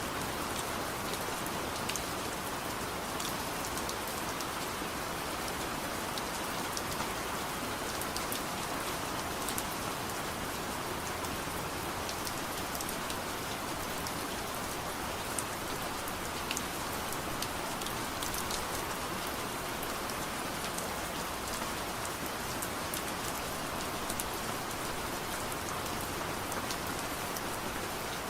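Steady soft rain falling, an even hiss with many small, sharp, irregular ticks and pops scattered through it.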